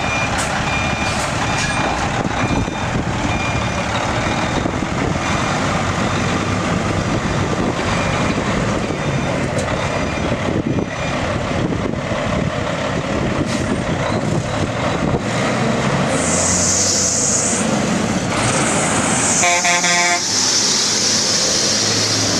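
Cat diesel engine of a Freightliner dump truck running steadily, with a backup beeper sounding in the first few seconds. From about 16 s in, loud hissing comes in repeated spells, and a brief horn-like toot sounds around 20 s.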